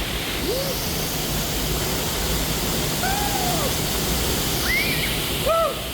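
Jacko Falls pouring into its plunge pool: a loud, steady rush of falling water. A few short calls that rise and fall in pitch sound over it.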